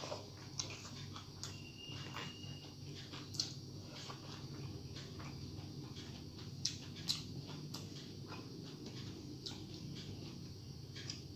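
Close-miked eating sounds: irregular wet clicks and smacks of chewing and mouth noises, a few sharper than the rest, over a steady low hum.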